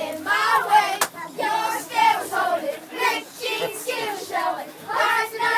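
A group of children's voices in a sing-song, continuous stream without clear words, with one sharp click about a second in.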